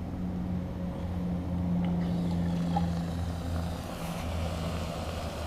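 A motor running with a steady low hum; its higher tone fades out about three and a half seconds in while the deeper hum goes on.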